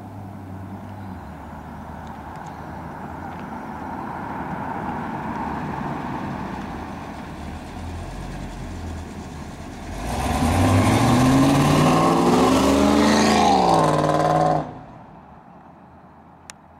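1983 Pontiac Firebird engine rumbling low as the car rolls closer, then accelerating hard about ten seconds in, its note rising steadily in pitch for several seconds before it cuts off suddenly. A quieter steady road hum follows.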